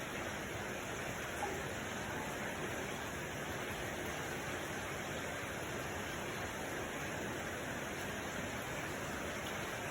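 A steady, even rushing noise with no pitch or rhythm, with one faint tick about a second and a half in.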